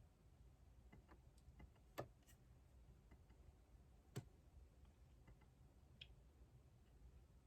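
Faint, scattered clicks and taps of desk work at a keyboard, with two sharper clicks about two and four seconds in, over a low room hum.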